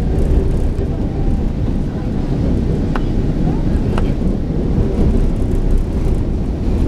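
MRT Line 3 train running, heard from inside the passenger car: a steady low rumble of the car moving along the rails, with two short clicks about three and four seconds in.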